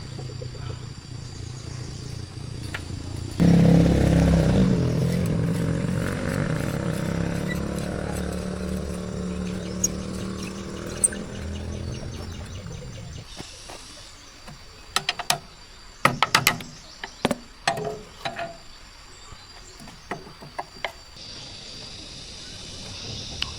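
A pitched mechanical hum starts abruptly a few seconds in and fades away over about ten seconds. It is followed by a run of sharp knocks. Crickets chirp steadily throughout.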